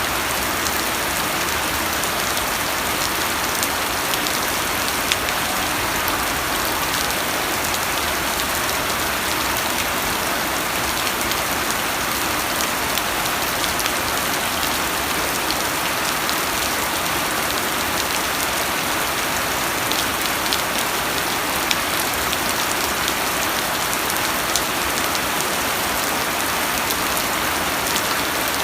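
Steady rain falling, with the hiss of the downpour and many small drops pattering and ticking on a surface.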